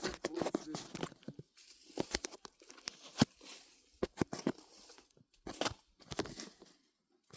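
Irregular close crunching and crackling, a scatter of sharp clicks and cracks with short quiet gaps between them.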